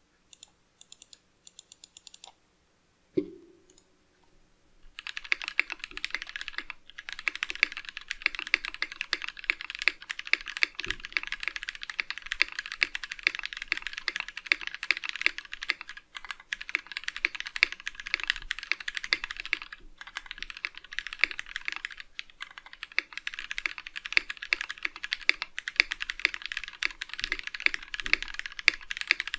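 Tofu60 mechanical keyboard with Gateron Yellow KS-3 linear switches being typed on. A few isolated clicks and a single sharp thump come in the first few seconds, then fast, continuous typing starts about five seconds in, broken by a few brief pauses.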